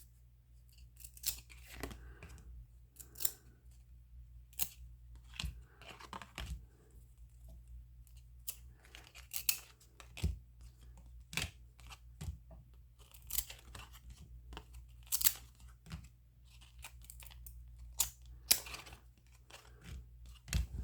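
Baseball cards being handled and flipped through by hand: irregular sharp snaps and clicks of card stock, with short tearing, rustling sounds between them as stuck cards are peeled apart.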